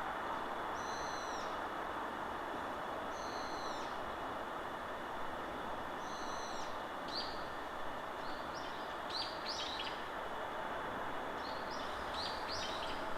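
Wild birds calling in a forest over a steady rush of wind in the trees: three similar drawn-out arching calls a couple of seconds apart, then quick runs of short high chirps.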